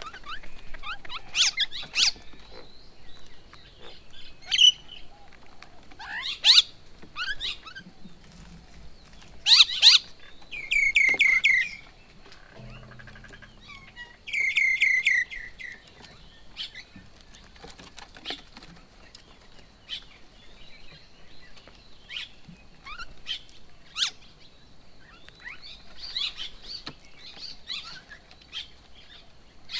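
Several birds calling at a feeding table: scattered short, sharp calls, and twice a loud run of rapid repeated chattering notes lasting about a second and a half each, the first about ten seconds in and the second about four seconds later.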